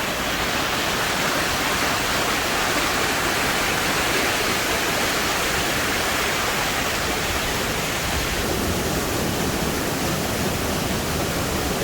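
Waterfall crashing: a loud, steady roar of falling water with no breaks.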